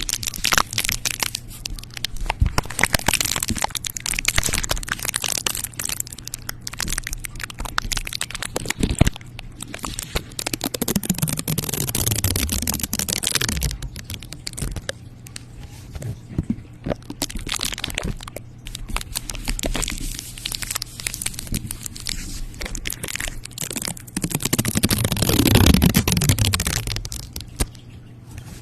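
Close-miked ASMR crackling and crunching: dense clicks of something being crushed and crinkled right at the microphone, with a low falling sweep about halfway through and again near the end.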